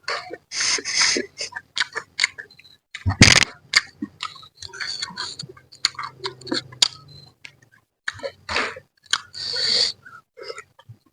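Close-up eating sounds while eating spicy mangut manyung fish head: chewing, lip smacks and small clicks, with two long hissing sucks near the start and near the end. One loud thump about three seconds in.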